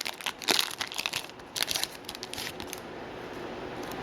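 Trading card pack wrapper being torn open and crinkled in the hands, a run of quick crackles that stops about three seconds in and gives way to a steady hiss.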